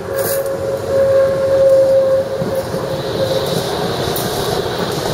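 Tatra tram running by on rails, with a steady whine that is loudest a second or two in and fades after about three seconds, then a higher whine over the running rumble.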